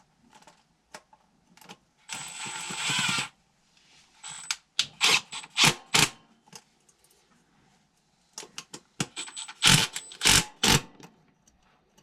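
Metal parts and tools being handled during furnace blower repair: a scraping burst of about a second, then two runs of sharp metallic clanks and knocks.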